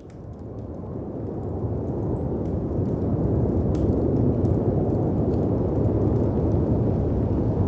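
Storm ambience fading in: a low, steady rush of wind and sea surf that swells in level over the first few seconds, with faint scattered crackles from a fireplace.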